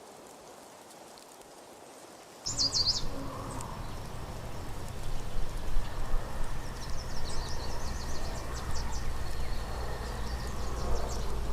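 Outdoor ambience of steady noise with a low rumble, which comes in abruptly about two and a half seconds in. Over it a small bird chirps in quick high trills, once briefly and then again for several seconds in the second half.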